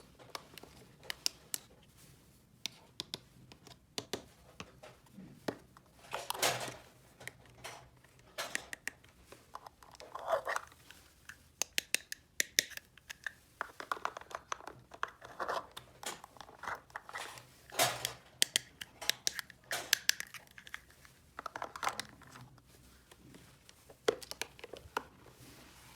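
Small plastic toy pieces being handled, clicking and tapping, with packaging crinkling and tearing in irregular short bursts.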